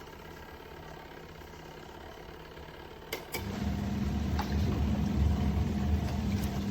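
Compact twin-tub washing machine running with a steady motor hum. About halfway through there is a click, then a much louder, deeper motor hum starts and keeps going.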